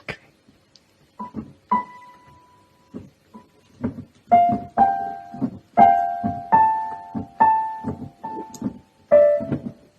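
Piano keys struck unevenly, singly and then in clusters of two or three notes, each with a dull thump under it. The notes start sparse and come louder and quicker in the second half, with no steady beat or tune.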